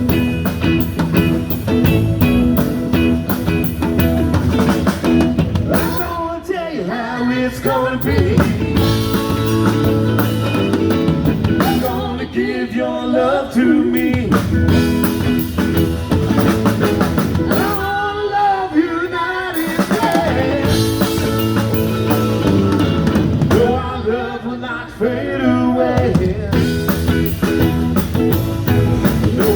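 A blues-rock band playing a song: drum kit keeping a steady beat under guitar, with a singer coming in for a short phrase about every six seconds.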